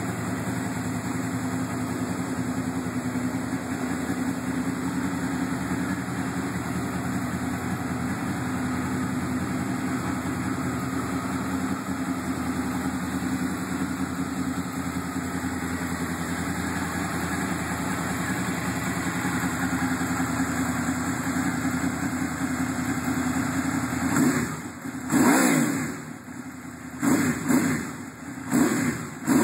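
Honda VFR800 VTEC's V4 engine, through a Scorpion carbon exhaust, idling steadily. Near the end it is revved in several quick blips, each rising and falling in pitch.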